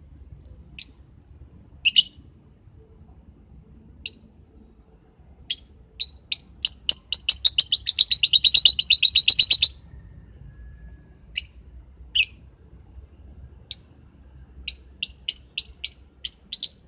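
Lovebird chirping in short, sharp, high calls: single chirps a second or two apart, a fast run of chirps from about six to ten seconds in, and another quick series near the end.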